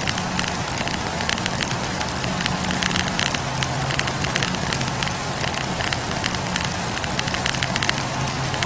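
Wood campfire burning, its logs crackling with many quick pops over a steady hiss, and a low steady hum of the fire underneath.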